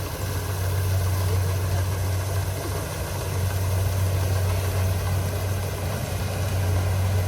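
Farm machine's diesel engine running steadily at a constant speed, with a strong, even low hum.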